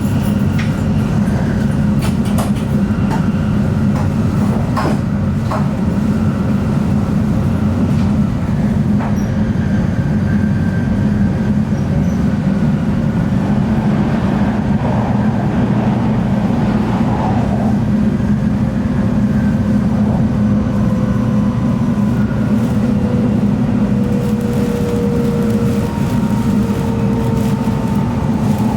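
Tokaido Shinkansen bullet train running at speed, heard from inside the passenger cabin: a steady low rumble with scattered clicks. A faint whining tone sinks slightly in pitch over the last few seconds.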